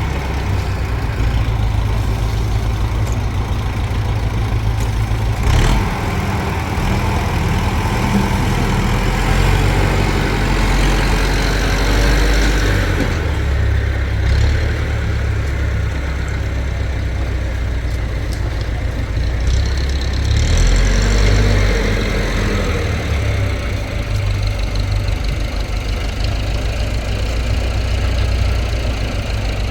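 Engine of the concreting machinery running steadily, its load and pitch shifting a few times, with a single sharp knock about five and a half seconds in.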